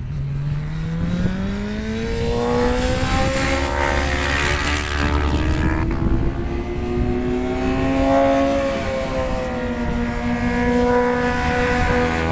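Racing motorcycle engine running out on the circuit, its pitch rising over the first few seconds, then wavering slowly up and down. Wind rumbles on the microphone underneath.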